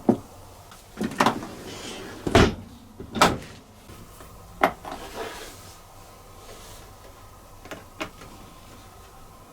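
Crockery and mugs being loaded into a dishwasher's racks: a series of irregular knocks and clunks, the heaviest about two and a half and three seconds in, then a few lighter clicks.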